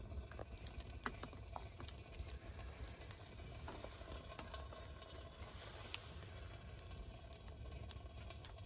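Faint sizzling of food cooking, with scattered small clicks and ticks over a low steady rumble.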